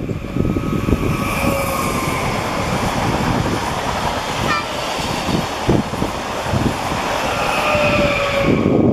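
Stadler FLIRT electric multiple unit passing at speed: a steady rush of wheels on rail and air, with faint whining tones near the start and near the end. The rush cuts off suddenly at the end.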